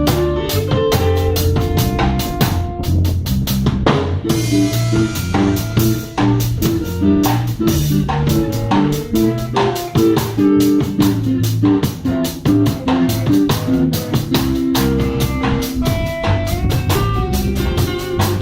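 Instrumental band music: guitar lines over a steady drum-kit beat with low bass notes, and a cymbal wash about four seconds in.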